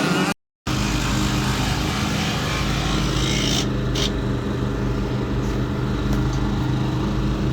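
Motocross bike engine running at a steady speed, after a brief break about half a second in.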